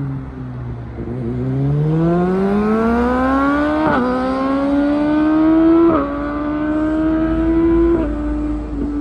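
Yamaha R6 inline-four running through an Akrapovic full exhaust, accelerating hard. The engine note climbs steadily and is broken by short breaks about two seconds apart, as at upshifts.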